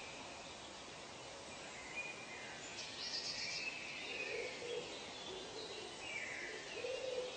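Forest ambience: several birds calling at intervals, high-pitched calls with a few lower ones among them, over a steady hiss of background noise.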